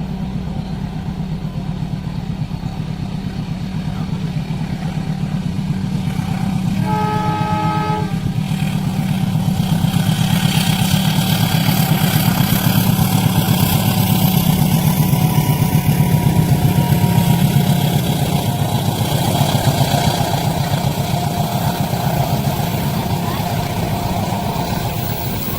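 A diesel-hauled train passes: a steady low engine drone, a short horn blast about seven seconds in, then the rumble of wheels on rails building to a peak midway and easing off slowly.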